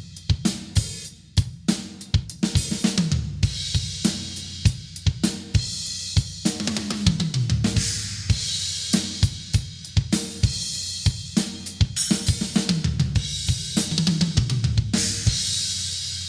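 Acoustic drum kit played solo: kick, snare and hi-hat beats with cymbal crashes and fills on the toms, recorded with basic home equipment.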